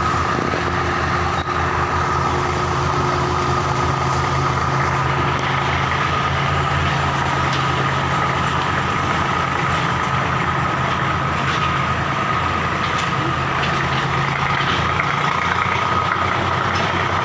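Steady low mechanical hum with a steady high whine over it, like a motor or engine running.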